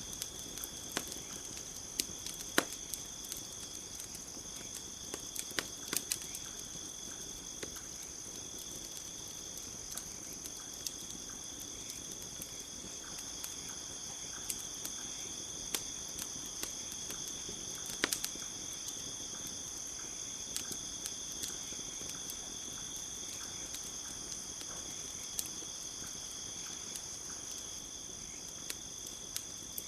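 A wood campfire crackling, with irregular sharp pops, the loudest about two and a half seconds in and again about eighteen seconds in, over the steady high chirring of night insects.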